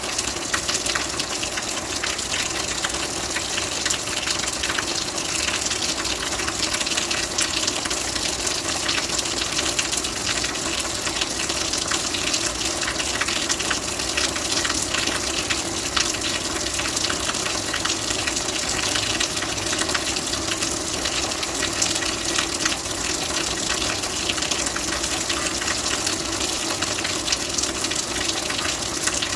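Steady rain falling, a dense, even patter of countless small drops with no let-up.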